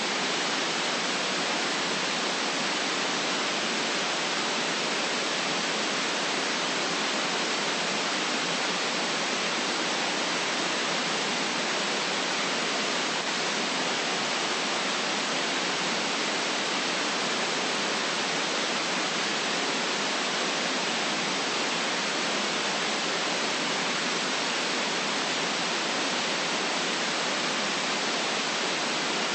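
Steady electronic white-noise hiss, even and unchanging, with little bass.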